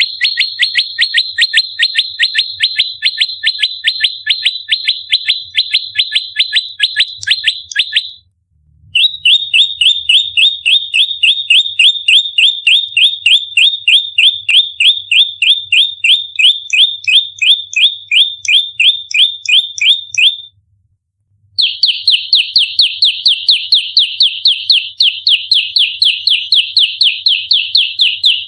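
Prenjak lumut singing its fighting song: long, rapid-fire runs of identical high, sharp notes, about five a second, in three bouts broken by brief pauses about eight and twenty seconds in.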